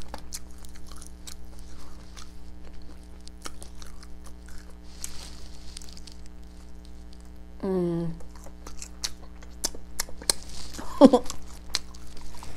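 Close-up mouth sounds of someone eating crispy fried food: wet smacking chews and crunchy bites. Two short hummed sounds of enjoyment slide downward in pitch, one about 8 seconds in and another about 11 seconds in, over a faint steady hum.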